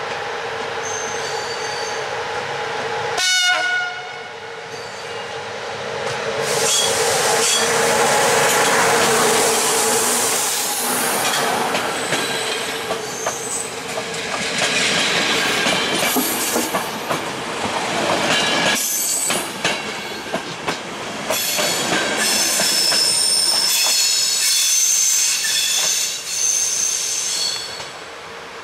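CFR Class 40 electric locomotive EA 649 hums steadily at the platform, gives a short horn blast about three seconds in, then pulls its passenger coaches out past the microphone. The coaches rumble loudly with irregular wheel clatter, and a high wheel squeal comes in toward the end as the train moves away.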